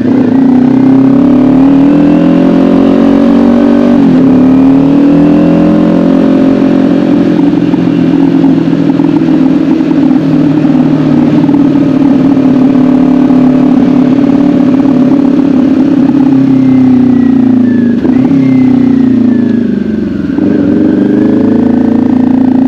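Kawasaki Ninja 400's parallel-twin engine running under way, its pitch dipping briefly about four seconds in and then holding steady. Near the end the pitch falls over a few seconds as the bike slows, then picks up again.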